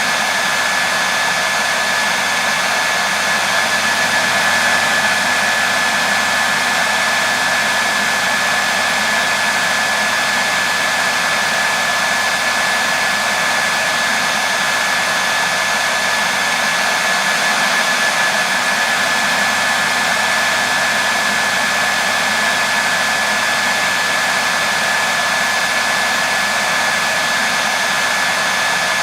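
Hair dryer running steadily on one setting: an even rush of blown air with a steady high whine from its motor and fan.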